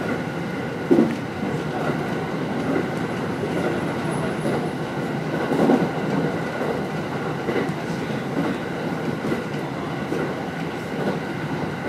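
Sōbu Line Rapid electric commuter train running along the track, heard from inside the front car: a steady rolling rumble with a few short knocks, the sharpest about a second in.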